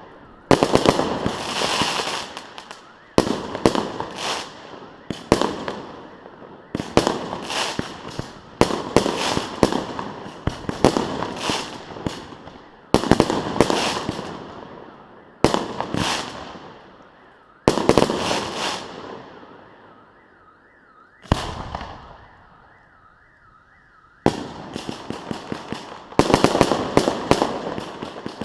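Fireworks display: clusters of sharp shell bursts, each followed by a trailing crackle, going off every second or two. A few seconds of lull come past the middle, before the volleys start again.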